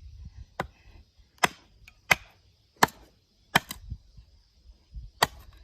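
Firewood being split by hand: about six sharp chopping strikes of a blade into a log, roughly one every three-quarters of a second.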